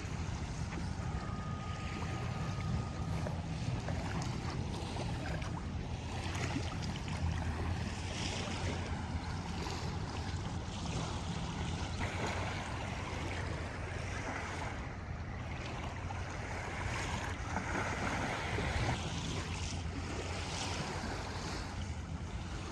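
Wind on the microphone with a steady low rumble, over the wash of the Rhine's water along the shore.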